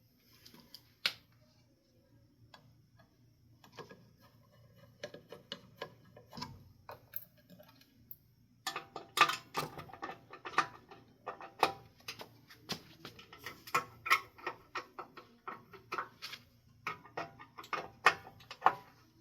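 Rapid, irregular clicking and light metallic rattling of hand work on a ceiling fan's small parts, sparse at first and then dense for the last ten seconds or so.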